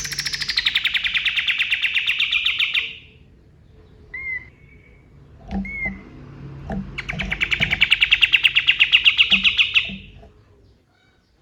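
Kapas tembak song: two long, rapid rattling trills of about eight or nine sharp notes a second, one at the start and one in the second half, with two short whistled notes between them.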